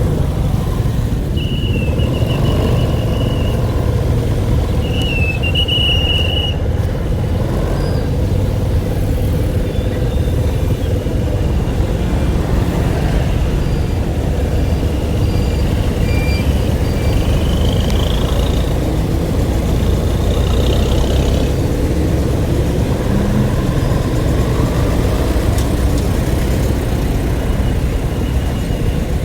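Steady low rumble of a running motor vehicle, with a few short high-pitched squeaks in the first seconds and again past the middle.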